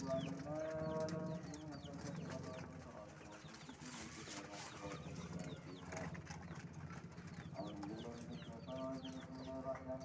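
Birds calling: many short, high, falling chirps throughout, with longer, lower pitched calls about half a second in and again near the end.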